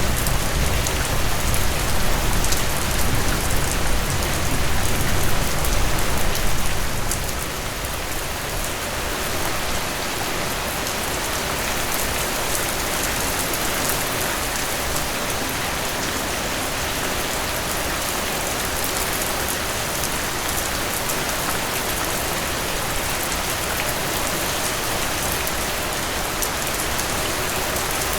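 Steady rain falling on a surface, an even hiss with scattered fine drop ticks. A low rumble sits under it for the first six or seven seconds, then drops away, leaving the rain on its own.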